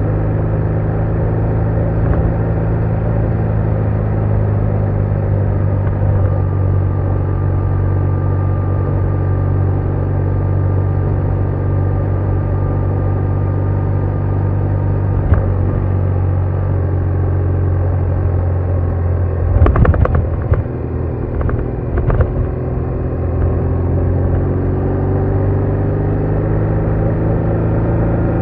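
BMW R1200R boxer-twin engine running steadily under way. About two-thirds through, the engine note briefly drops away with a few sharp knocks, then picks up again with a rising pitch.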